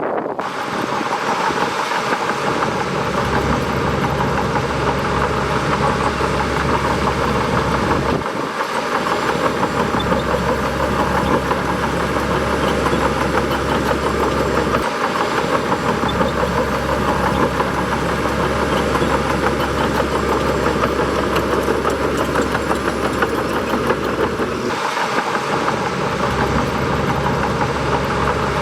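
Bulldozer diesel engine running steadily with a constant hum over its low rumble; the low rumble drops away briefly three times.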